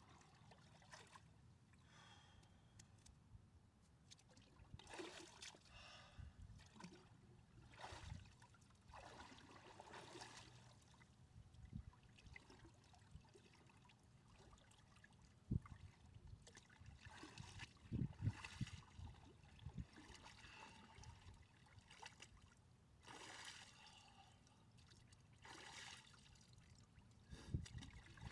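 Faint trickling and swishing of lake water as a person moves while immersed in it, in soft separate bursts with a few dull knocks around the middle.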